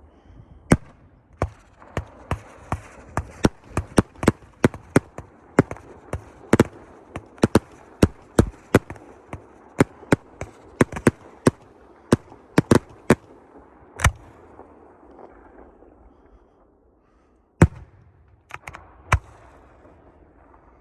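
Fireworks going off in a rapid string of sharp bangs, about two a second, for most of the stretch. After a short lull comes one loud bang, then a few more close together.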